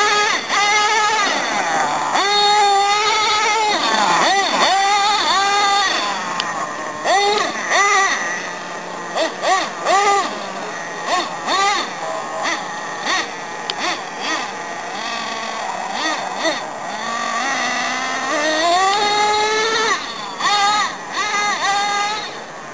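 Traxxas T-Maxx nitro RC truck's small two-stroke glow engine revving up and down in repeated throttle bursts, its high whine rising and falling, with one longer climbing rev near the end.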